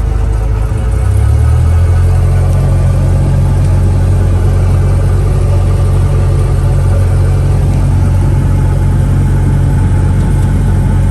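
Car engine and road noise: a loud, steady low rumble that shifts slightly in pitch about a second and a half in.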